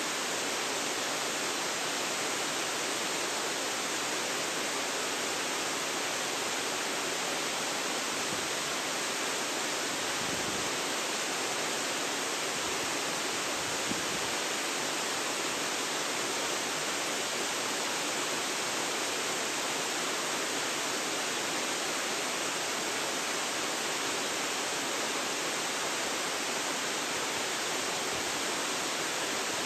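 Waterfall falling and splashing in a steady, even rush of water.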